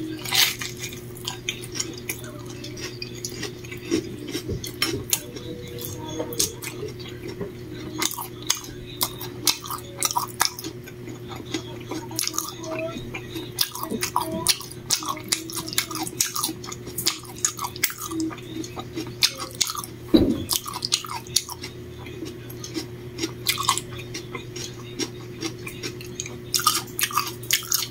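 Close-miked chewing and mouth sounds of a fried egg sandwich being eaten, irregular wet clicks several times a second, over a steady low hum.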